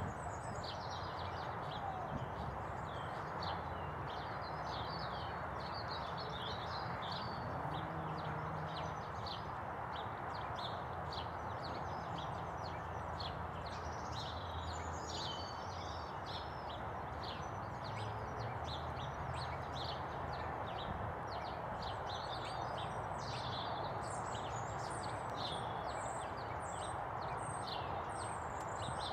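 Small birds chirping and singing, many short high calls one after another, over a steady background hum of outdoor noise.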